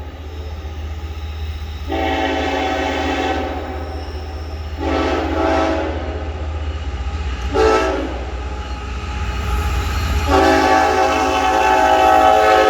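Hybrid K5HLA five-chime air horn on a CSX GE ES44AC-H locomotive sounding the grade-crossing signal: long, long, short, long, with the last blast still sounding at the end. This horn is a cross between a 3rd-gen K5HLA and a K5HL. A steady low rumble from the approaching locomotives runs underneath.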